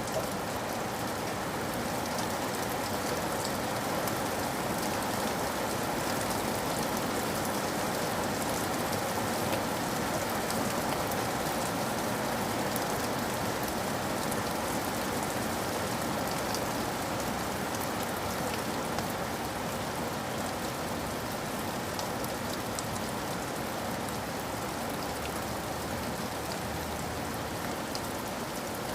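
Steady rain falling on a surface, an even patter with scattered small drop ticks, used as a background ambience.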